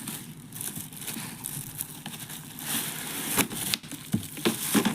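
Plastic packaging crinkling and rustling as plastic storage boxes are handled, with several sharp clicks in the second half.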